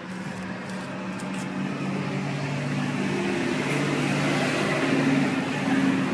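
2016 Chevy Colorado's 2.5-litre inline-four running through an aftermarket MBRP exhaust system, with the exhaust note climbing a little in pitch and getting louder over the last couple of seconds as the revs rise.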